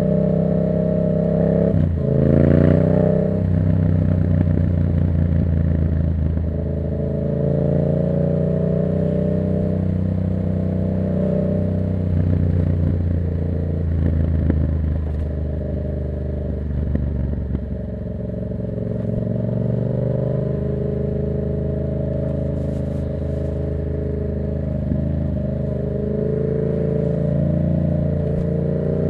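2024 Yamaha MT-07's 689 cc parallel-twin engine running through an open Black Widow exhaust with no dB killer, ridden on the road. The revs dip sharply and climb again about two seconds in, then rise and fall slowly.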